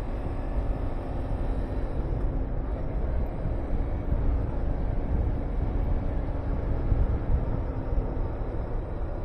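Honda VTR250 V-twin motorcycle engine running at a steady pace while riding, under heavy wind noise rushing over the camera microphone.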